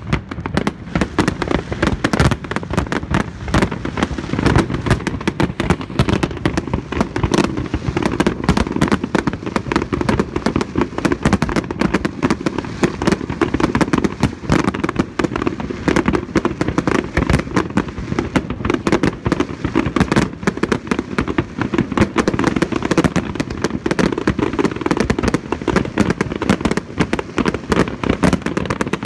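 Aerial fireworks display: a dense, unbroken barrage of shell bursts and crackling, many bangs a second with no let-up.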